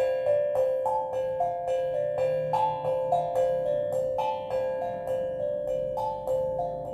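Steel drum played in a slow repeating melody, one struck note about every two-thirds of a second, each note ringing on and overlapping the next.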